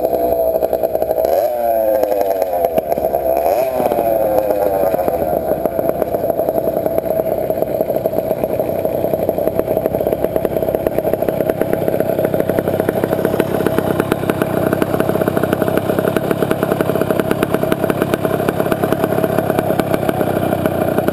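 Small engine of a motorized bicycle revved in three quick blips, each falling away, then running steadily.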